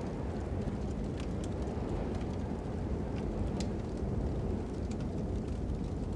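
Fire crackling with scattered sharp pops over a steady low rush of wind.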